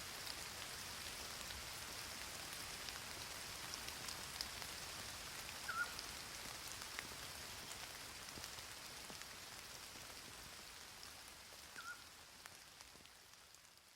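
Steady rain falling, a fine hiss with scattered drop ticks. A short high chirp comes twice, about six seconds apart. The sound fades out at the very end.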